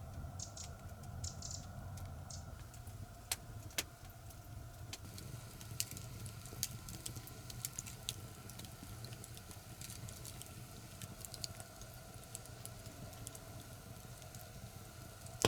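Wood fire crackling in a stove, with irregular sharp pops and snaps over a low steady rumble.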